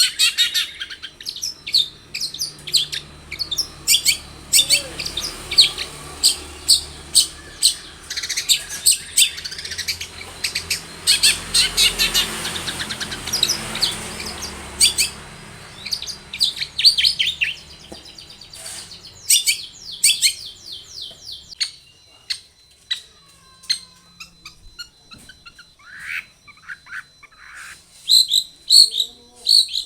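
Long-tailed shrike (cendet) singing a rapid, chattering song of short high notes. It is dense at first, then thins out into scattered phrases and a few whistled notes near the end.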